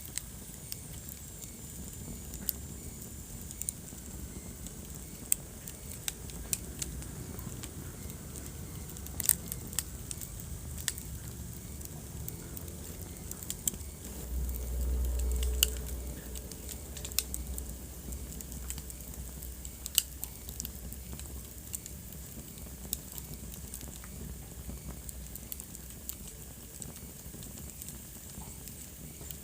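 Wood fire burning in a fireplace, crackling with irregular sharp pops over a steady low rush. About halfway through, a louder low rumble swells for a couple of seconds.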